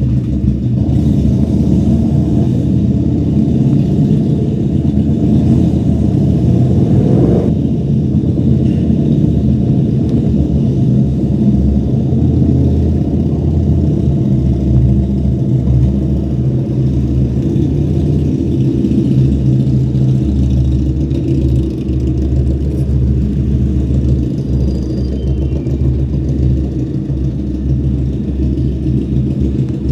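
QJMotor SRV250's 249 cc V-twin engine running through a custom-made two-into-one exhaust while the motorcycle is ridden. It is a steady low rumble whose level shifts with the throttle, heard through a microphone in the rider's bag.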